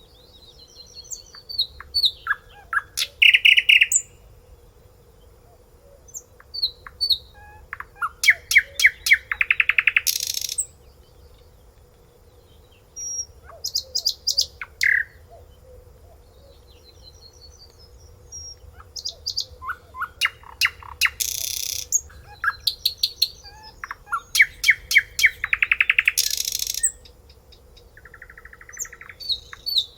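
A songbird singing in phrases of rapid trills, buzzy runs and repeated notes, a dozen or so loud bursts with short pauses between them, over a faint steady hum.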